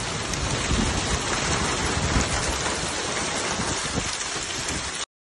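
Heavy rain pouring down on a flooded street, a dense hiss with a low rumble underneath; it cuts off suddenly near the end.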